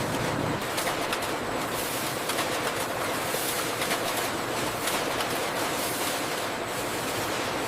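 Steady rushing noise, even throughout, with faint scattered clicks.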